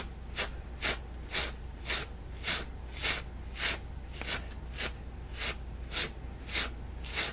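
A cat brush's curved wire teeth stroked over a stuffed bear's pilled fabric, about thirteen short brushing strokes at a steady two a second, lifting the pills off the fabric.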